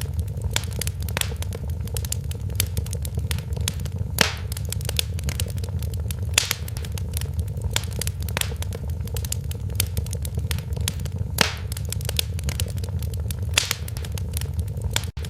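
Wood fire crackling in a fireplace: a steady low rumble of flames under dense snapping and popping, with a few louder pops along the way. The sound cuts out for an instant near the end.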